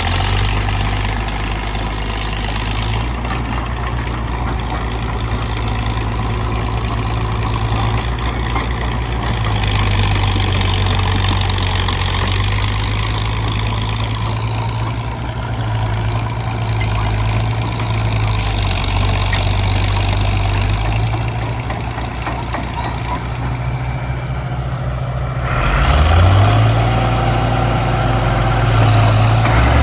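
Heavy diesel crawler tractor engine running steadily with a deep, low note. About 25 seconds in, the engine note drops briefly, then rises and gets louder.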